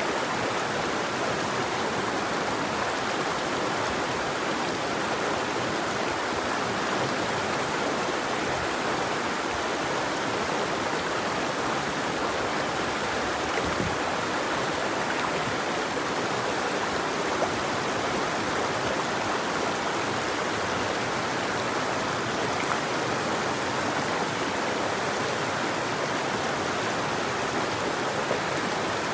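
River water flowing over its bed: a steady, unbroken rush with no birdsong.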